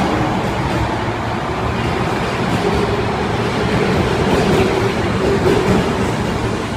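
Osaka Metro 22 series subway train running out of the station: a steady rumble of wheels and motors, with a faint whine in the middle.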